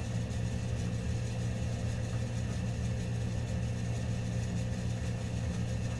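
Steady low mechanical hum like an idling engine, unchanging, with nothing else standing out.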